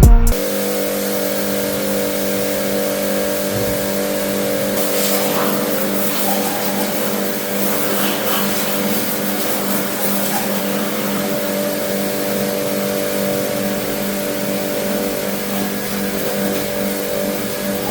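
Kawasaki Ninja motorcycle engine running steadily, holding an even pitch, with no revving.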